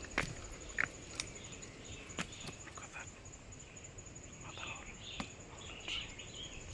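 Footsteps on a bush trail with scattered sharp snaps and crunches of dry twigs and leaves, over a steady high insect trill like crickets.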